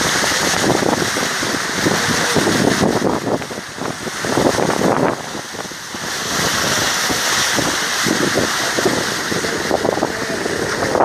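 Gusty wind buffeting the microphone over the rumble of a vehicle moving along a dirt road. The noise dips briefly twice near the middle.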